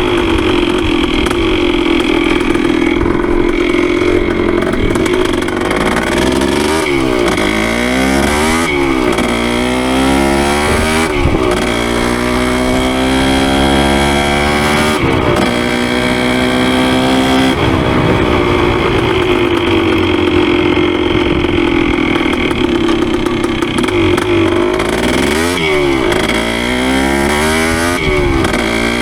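1973 Yamaha CT3's 175cc single-cylinder two-stroke engine running under way, its pitch climbing and dropping back several times as it is throttled up and shifted through the gears. The engine is freshly rebuilt and being broken in on light throttle.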